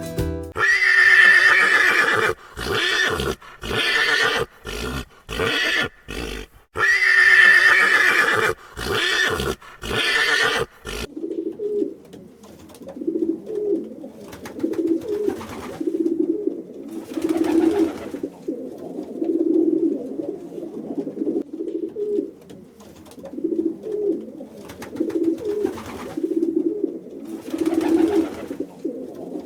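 Loud animal calls for about the first eleven seconds: two long, high cries with shorter calls between them. Then birds cooing, a low call repeated about once a second.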